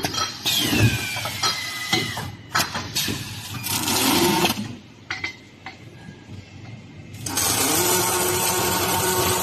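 Automatic ringlock ledger welding machine working through its cycle: a falling whine and broken bursts of hissing machine noise, a quieter pause, then a steady mechanical hum with hiss starting about seven seconds in.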